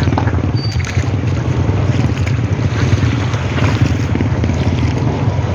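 A vehicle engine running with a steady low rumble, with rushing water and wind noise on the microphone.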